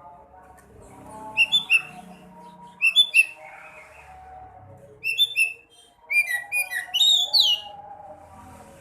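Sekoci bird singing: bright, clear chirping phrases in short bursts, the longest and busiest run near the end, over a quieter, lower continuous twittering.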